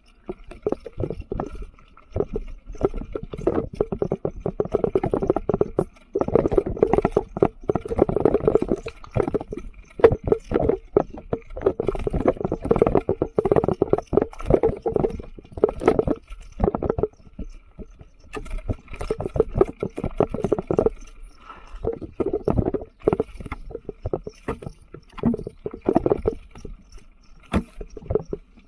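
Mountain bike riding over a rough dirt trail: irregular rattling, knocks and tyre rumble that swell and ease with the terrain, with a few quieter stretches.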